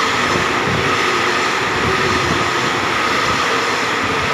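Passenger train coaches running through a station at speed: a loud, steady rush and rumble of steel wheels on the rails.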